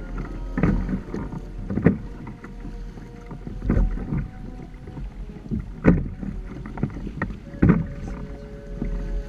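Water slapping and splashing against the hulls of a Hobie Tandem Island trimaran under sail, in irregular splashes about every second or two, over a steady low rumble.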